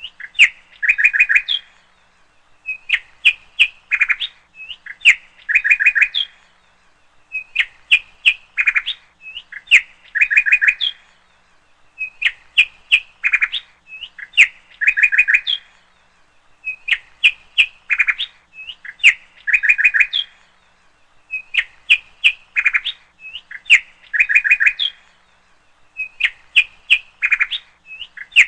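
Bird chirping, from a looped recording: the same phrase of quick chirps and short trills repeats about every five seconds.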